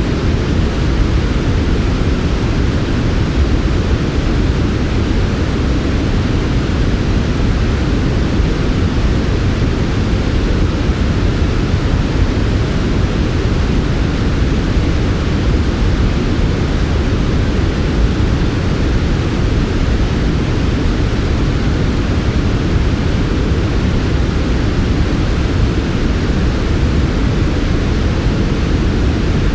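Steady, unchanging generated noise for sleep, deep-toned rather than bright: a dense low rush with a fainter hiss above it.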